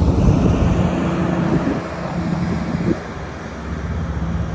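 A vehicle engine running steadily, with a low hum, under heavy wind noise on the microphone.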